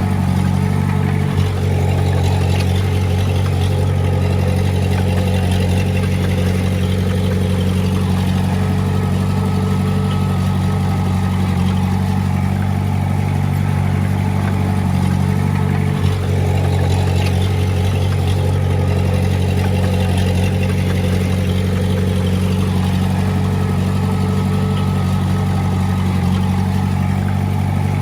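Diesel engine of heavy earthmoving equipment running steadily at an even pitch, with a short knock about a second in and another about sixteen seconds in.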